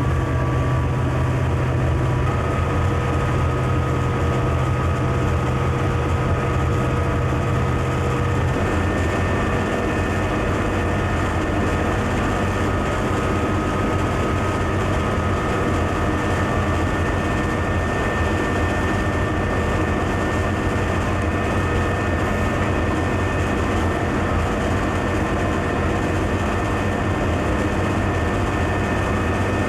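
Conrail freight train's diesel locomotive running steadily, a constant low engine drone with overtones; about eight seconds in the low engine note drops and the drone carries on.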